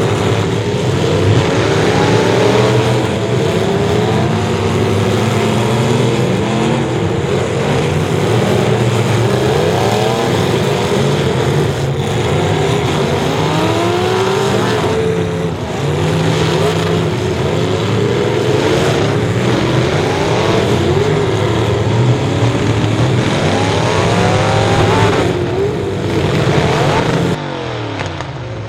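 Several race car engines running hard, their pitch repeatedly rising and falling as the cars rev up and lift off. The sound drops a little quieter near the end.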